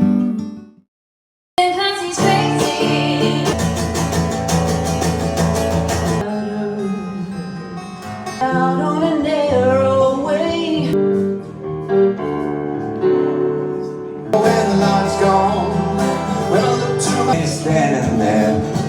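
Acoustic guitar music with a singing voice. The music cuts off suddenly for about a second near the start, then picks up again.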